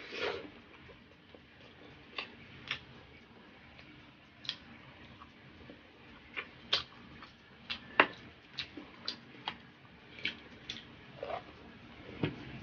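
Close-miked chewing and lip-smacking of someone eating barbecue pork ribs and rice by hand: a string of irregular mouth clicks and smacks, the loudest about eight seconds in.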